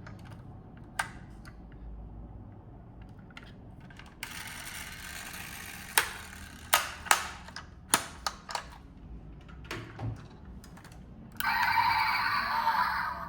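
A series of sharp clicks and taps over a light steady hiss, typical of small parts being handled, with about six clicks bunched together in the middle. Music comes in near the end.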